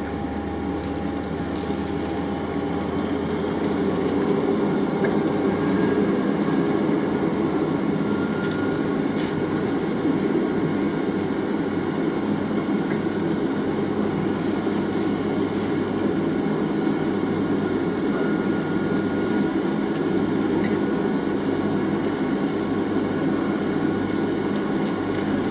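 Steady cabin noise inside a Boeing 767-300ER on the ground before take-off: an even rumble with a faint high whine running through it.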